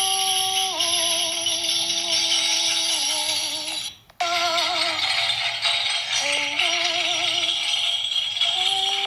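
Music: a tambourine shaken continuously, jingling, under long held melodic notes that step from pitch to pitch and waver in places. Both cut out for a moment about four seconds in.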